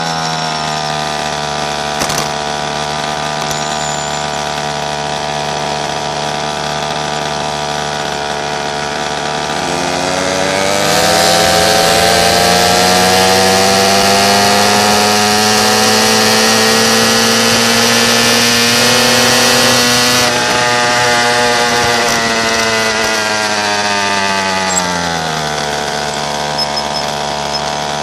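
Pocket bike's small engine running. The pitch sags slightly at first, climbs about ten seconds in and stays high and louder for about ten seconds, then falls back to a lower steady run near the end.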